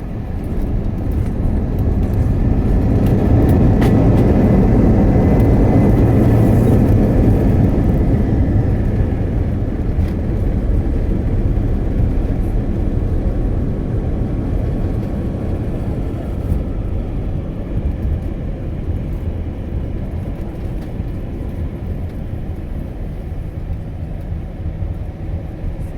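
Cabin noise of an Airbus A321 on its landing roll. The engine roar swells over the first few seconds, typical of reverse thrust after touchdown, then slowly dies away as the aircraft slows on the runway.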